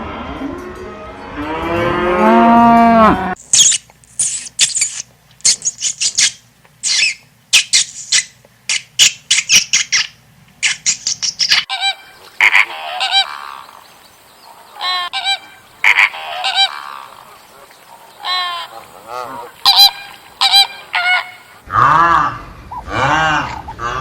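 Animal calls: a long, low call for about the first three seconds, then a rapid run of short, sharp, high-pitched calls, then a string of repeated honking calls, with lower, louder calls coming in near the end.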